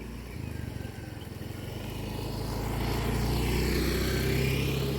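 Motorbike engine running, getting steadily louder over the first four seconds, with rushing wind or road noise over it.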